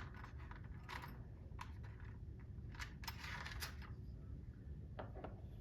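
Light, scattered metallic clicks and rattles of small steel clockmaker's broaches being picked through and handled on the bench.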